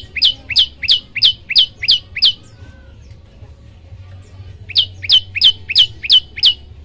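Prenjak lumut (a prinia) singing: runs of sharp, high descending notes repeated about three times a second. One run fades out a little over two seconds in, and after a pause of about two seconds a second run of six notes follows. A faint low hum lies underneath.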